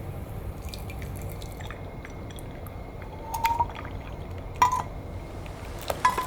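Light kitchen sounds: small ticks and drips, then three sharper clinks of glass or crockery with a brief ring, over a low steady rumble.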